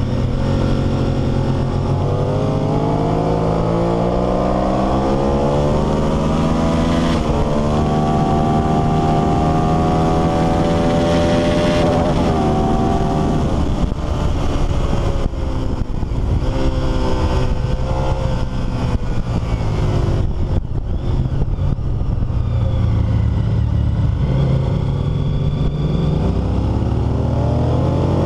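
Honda VTR1000 SP1's 999 cc V-twin engine heard onboard at full throttle on a race track, revs climbing through the gears with upshifts about seven and twelve seconds in, then falling away as it slows for a corner from about fourteen seconds, before accelerating again near the end, over a steady rush of wind.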